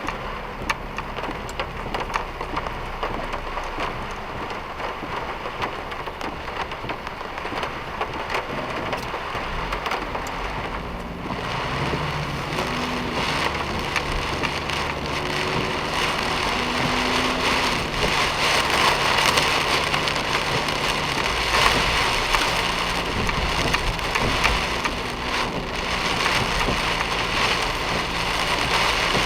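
Heavy typhoon rain hitting a moving car, a dense patter of drops, getting louder from about eleven seconds in, with a low hum joining it.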